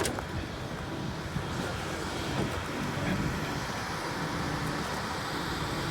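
Steady low rumble of motor vehicle engines, with faint pitched traces here and there over it.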